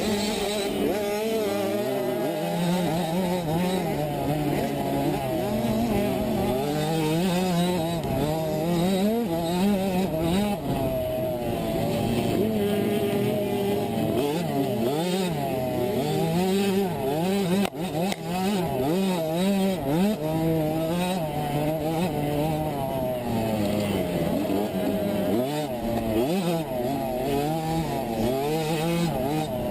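A 65cc two-stroke motocross bike engine racing, its pitch rising and falling constantly as it revs through the gears and off the throttle. It dips briefly a little past halfway.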